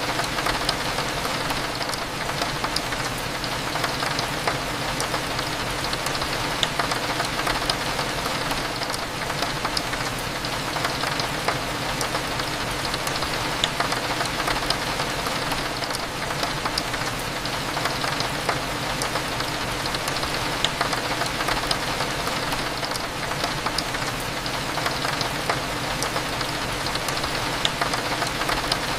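Steady rain, a dense patter of small drops with a few sharper ticks scattered through, over a low steady hum.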